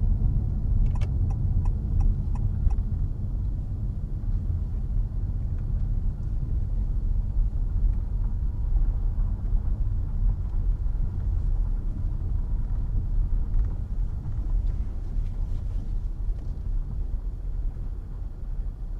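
Steady low rumble of road and running noise inside the cabin of a 2022 Honda HR-V e:HEV hybrid on the move, with a run of six quick, evenly spaced ticks about a second in.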